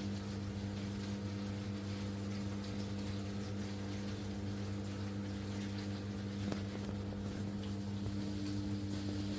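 Washing machine running with a steady hum and water noise, like its pump moving water.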